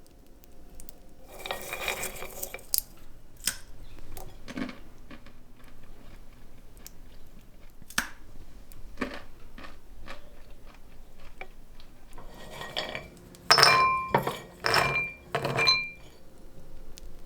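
Roasted nuts and dishware being handled: scattered clicks and rattles, then three loud clattering bursts with a brief ringing note, like nuts scraped across a ceramic dish.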